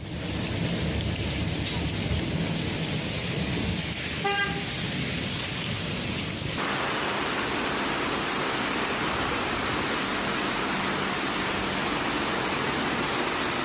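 Heavy rain pouring down in a storm: a dense, steady hiss that changes character once about six and a half seconds in, with a brief high voice about four seconds in.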